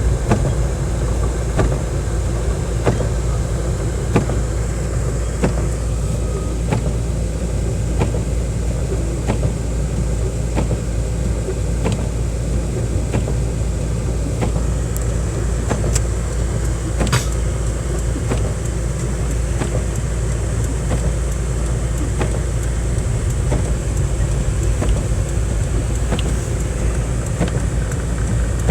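Steady low engine and road rumble heard inside a moving car's cabin, with faint clicks and knocks scattered throughout.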